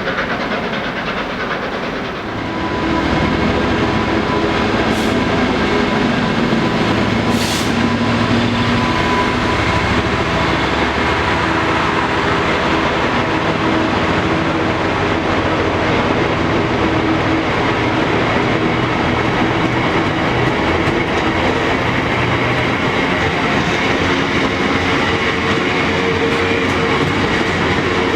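A train running along the track. It gets louder about two seconds in and then holds steady, with a couple of brief high hisses early on.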